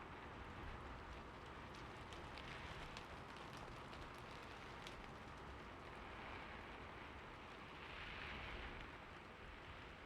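Steady rain falling: an even hiss with scattered sharper drop ticks and a brief swell about eight seconds in.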